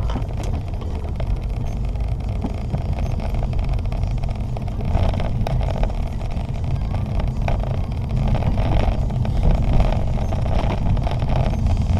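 2008 Honda Civic driving, heard from inside the cabin: a steady low rumble of engine and road noise that grows somewhat fuller about halfway through.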